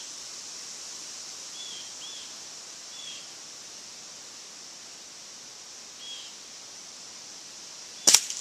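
Single sharp crack of a .177 QB78 air rifle, converted to run on high-pressure air, firing near the end, the loudest sound. Before it, a steady outdoor hiss with a few short bird chirps.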